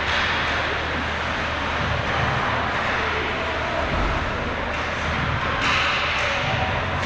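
Ice hockey game ambience in a rink: a steady wash of noise from skates and crowd over a low hum. A few sharp knocks, typical of sticks, puck or boards, come about two-thirds of the way in.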